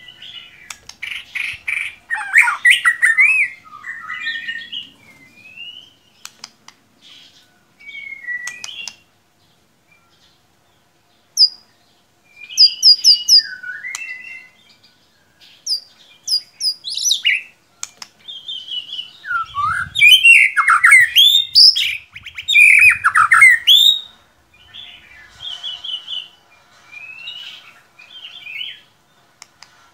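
White-rumped shama (murai batu) singing: varied phrases of whistles, fast up-and-down glides and chattering notes. The song pauses briefly about ten seconds in, and its loudest run of phrases comes about two-thirds of the way through.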